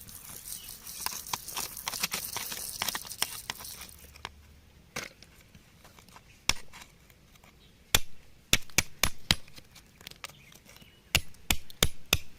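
A hand tool working into stony ground: a gritty scraping for the first few seconds, then a string of sharp knocks of metal on rock, about a dozen in irregular clusters.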